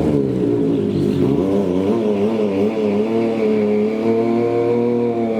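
Sport motorcycle engine revving at the start line of a drag strip, its revs bobbing up and down for the first couple of seconds, then held fairly steady at high revs.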